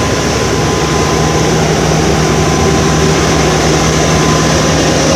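A machine running steadily: a loud, even mechanical drone with a constant low hum.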